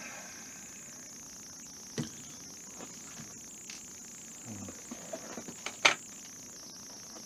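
Light clicks and taps of small plastic model-kit parts and tools being handled while being fitted with small screws, with one sharp, loud click just before six seconds in. A steady high hiss runs underneath.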